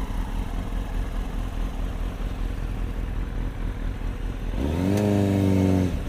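Motorcycle engine running under riding noise, then a brief rev about four and a half seconds in: the engine note rises and falls back over about a second and a half.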